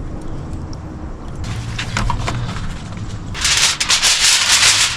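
Water being poured into a pot, first a faint trickle, then a loud, steady pour from about three seconds in. A low steady hum lies underneath.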